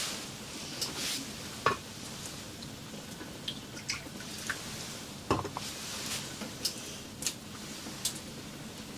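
Irregular light clicks and knocks over a steady hiss, with two louder knocks, one a little under two seconds in and one about five seconds in.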